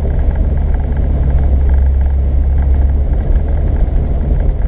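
Off-road four-wheel-drive vehicle driving on a trail, its engine and drivetrain a steady low rumble.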